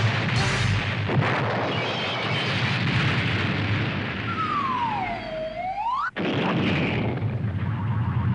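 Cartoon explosion sound effects: a long, loud blast rumble with a whistling tone that dips and then rises again midway. It breaks off abruptly about six seconds in and is followed by more rumbling.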